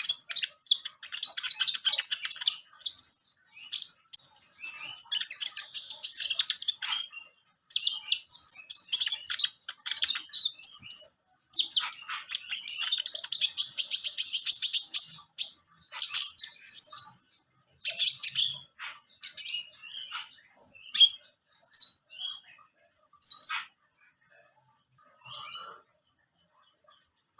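A konin, a small caged songbird, chirping and twittering in high-pitched runs of rapid notes. The longest runs come in the first half; toward the end there are shorter, scattered calls with pauses between them.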